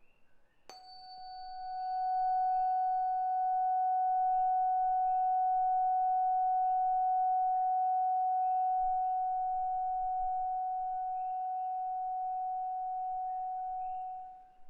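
741 Hz Solfeggio tuning fork struck once, a sharp click with a brief high overtone, then a steady pure tone ringing for about thirteen seconds. The tone grows louder over the first second or so and dies away near the end.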